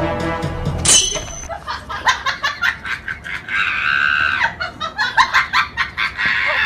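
Background music cuts off about a second in, then a person laughs in rapid bursts, with a higher, held squeal-like stretch midway.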